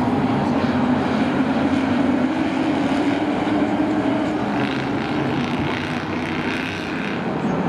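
Engines of short-track racing trucks running on the track, a loud steady drone with no break.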